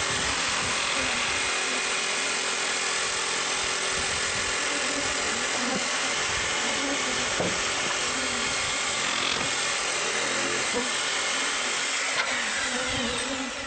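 An electric power tool running steadily without a break, its noise fading out near the end as bee buzzing takes over.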